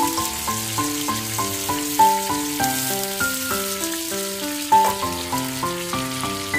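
Butter sizzling steadily as it melts in a frying pan on an electric coil burner. Over it plays background music, a melody of quick stepping notes that is louder than the sizzle.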